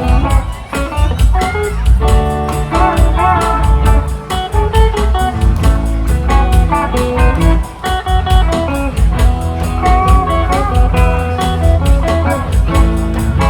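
Live band playing an instrumental break: guitar carrying a melodic lead over strummed chords, bass and drums.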